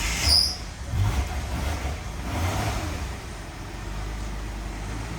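Ford AU Falcon's engine running just after starting. It swells briefly a few times in the first three seconds, then settles to a steady low idle.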